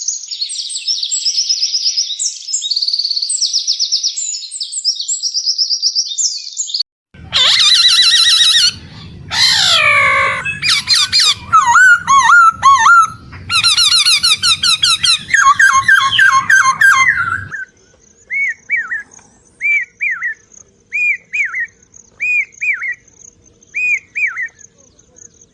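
Songbirds singing in three stretches. First a high, rapid trilling song; then, from about seven seconds in, a loud jumble of varied whistles, sweeps and trills; then, from about eighteen seconds, a single bird repeating a short whistled phrase about once a second over a faint, steady high note.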